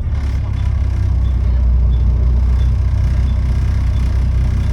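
Volvo B7TL bus's six-cylinder diesel engine running with a deep, steady note, heard from inside the bus and growing a little louder over the first second or two; the exhaust is blown, which gives the engine its loud, raw sound.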